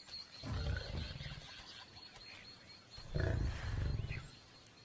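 Lion growling at a kill, two low, rough growls, the second louder, a warning over the carcass.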